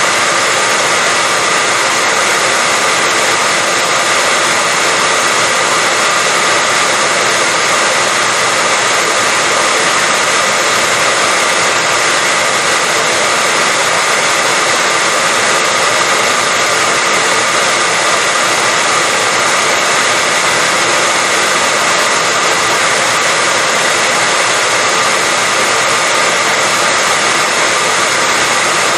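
Hair dryer running continuously at a steady speed: a loud, unchanging whir with a fan hum over an airy hiss.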